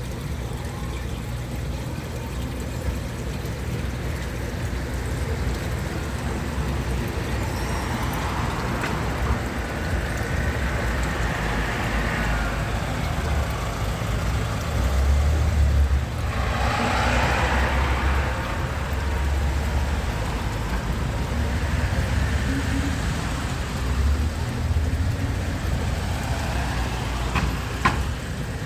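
A motor vehicle's engine running with a steady low rumble. Swells of rushing noise rise and fall over it, the loudest about two-thirds of the way through, and there is a sharp click near the end.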